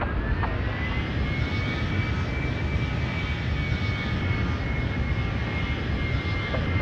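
Jet airliner engines spooling up: a whine rises and then holds steady over a steady low rumble, as the engines reach takeoff thrust.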